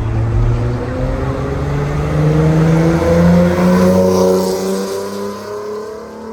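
Car engine accelerating hard, its pitch climbing steadily as it pulls away; it is loudest about three seconds in and then fades.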